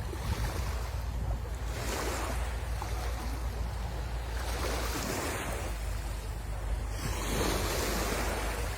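Sea waves breaking and washing up a beach, the surf swelling again every two to three seconds over a steady low rumble.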